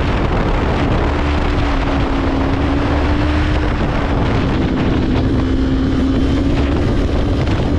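Sport motorcycle engine running hard at high revs, its pitch sagging a little mid-way and rising again near the end, with heavy wind noise buffeting the microphone.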